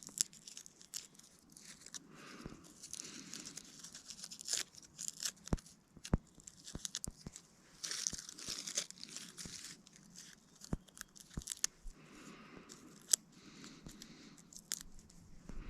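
Birch bark being torn and shredded by hand into fine strips: soft, intermittent tearing and crinkling rustles with small sharp snaps between them.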